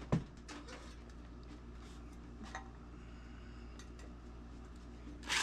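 Light metallic clicks and clinks as the metal lantern and tools are handled: a couple of sharp clicks at the start, then scattered faint ticks over a steady low hum. A short loud burst of noise comes right at the end.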